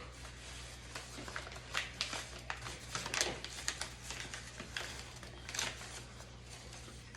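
Sheet of paper being folded and creased by hand: irregular soft crackles and rustles, with a steady low hum under them.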